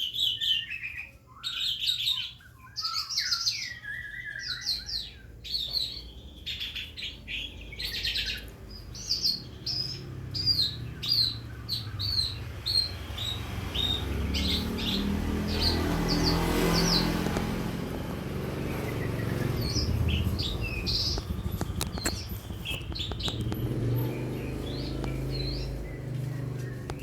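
A young calandra lark singing a varied run of chirps, trills and rapid repeated notes: the halting practice song of a bird still learning its song. A low rumble swells and fades under the song in the middle.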